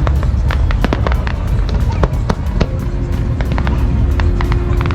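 Fireworks going off: many sharp bangs and crackles at irregular intervals over a constant low rumble.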